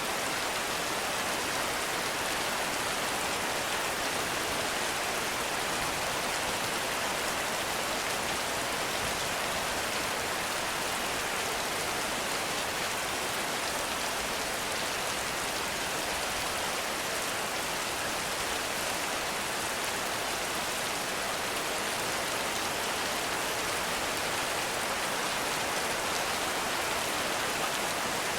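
Heavy rain falling steadily, an even hiss of many drops with no breaks or thunder.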